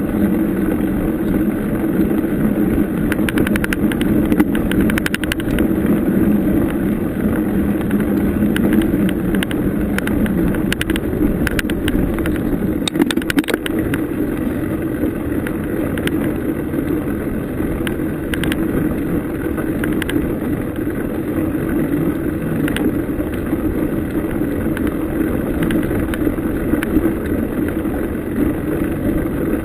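Bicycle being ridden: a steady rumble, with sharp rattles and knocks here and there from bumps in the ride.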